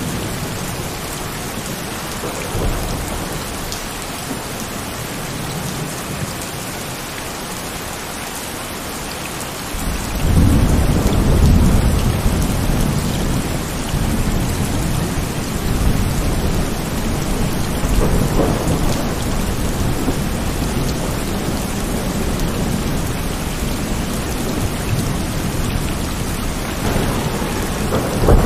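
Heavy rain falling steadily, with thunder breaking into a deep rolling rumble about ten seconds in. The rumble keeps going under the rain and swells again briefly near the end.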